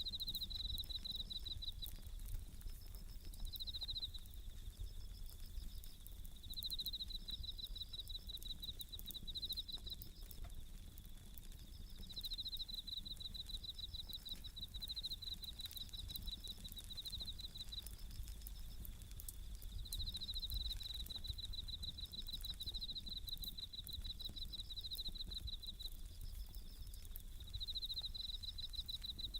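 Bell crickets (suzumushi) singing, a high ringing trill repeated in short bursts every second or two, over the light crackle and pops of a campfire.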